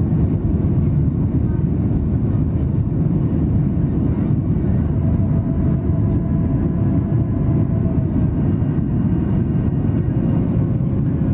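Cabin noise of a Boeing 737-800 under way: a steady, loud low rumble from its CFM56-7B jet engines and the airflow, with a faint steady whine above it.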